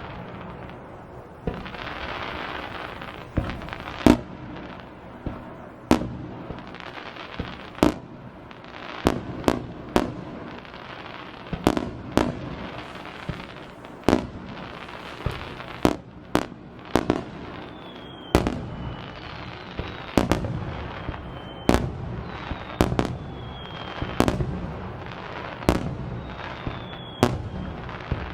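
Aerial fireworks shells bursting in quick succession, one or two sharp bangs a second over a continuous crackle. Several short whistles, falling slightly in pitch, sound in the second half.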